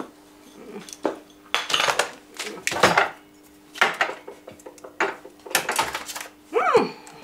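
Glass laboratory beakers and small boxes clinking and knocking on a shelf as they are picked up and moved, a string of separate short clinks with a little ringing. A brief squeak that rises and falls in pitch near the end.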